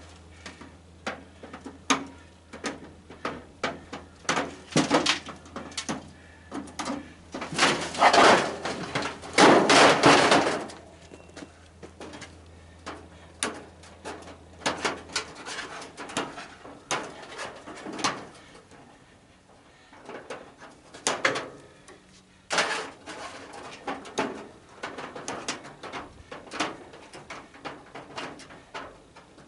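Irregular clicks, knocks and clatter of hand work on a tanning bed's parts and wiring, with louder stretches of scraping noise about eight and ten seconds in. A low hum stops about halfway through.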